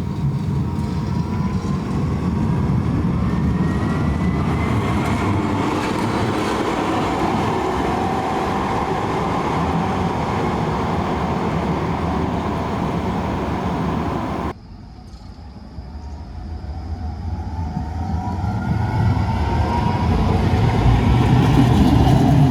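Bombardier NGT6DE tram running, its traction motors giving a whine that rises in pitch as it gathers speed over a steady rumble. The sound breaks off suddenly about two-thirds of the way through, then a tram's rising whine comes back and grows louder.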